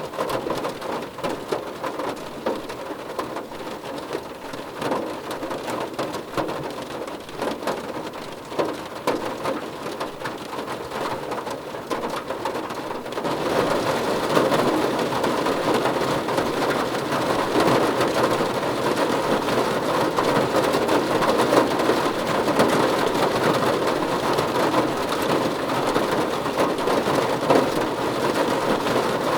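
Rain drumming on a car roof, with separate drops pattering at first. A little under halfway through it turns heavier, into a louder, denser, steady downpour.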